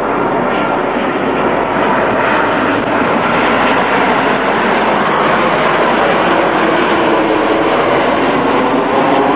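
Jet airliner's engines on landing approach: a loud, steady rushing roar that builds over the first second or two and then holds.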